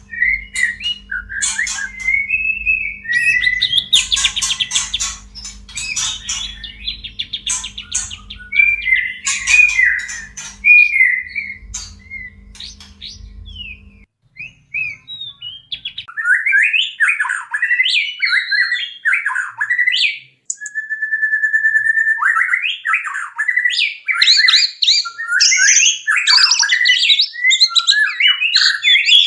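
White-rumped shamas in breeding condition singing and calling: varied whistled phrases mixed with harsh chattering calls, the chatter growing dense near the end. A low steady hum underneath stops suddenly about halfway through.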